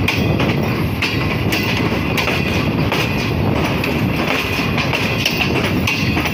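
Green Line Express passenger coaches rolling slowly past the platform as the train pulls out: a steady rumble of wheels on rail, with scattered clicks as the wheels cross rail joints.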